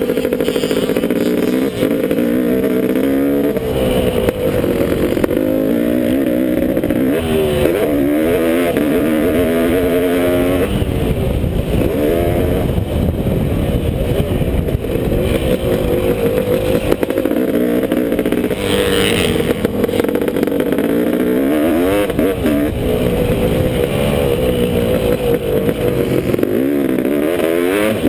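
A two-stroke Honda CR500 motocross engine in a KTM frame, ridden hard around a track. Its pitch climbs and drops again and again as the throttle is opened and shut through the gears, over a steady rush of wind and track noise.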